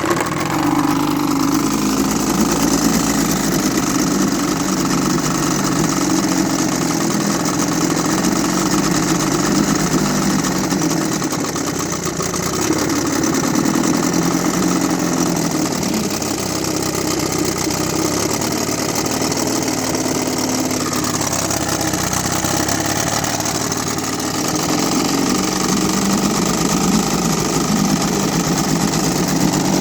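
1949 Hiawatha 5 hp two-cylinder outboard motor running just after being pull-started. Its speed wavers a little, dipping and picking up again. It won't rev up all the way, which the owner puts down to being low on fuel.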